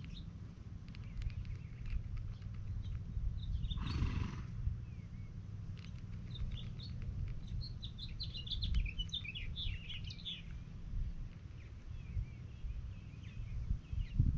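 Songbirds chirping in short, high calls, most busily from about seven to ten seconds in, over a steady low rumble. A brief rush of noise comes about four seconds in.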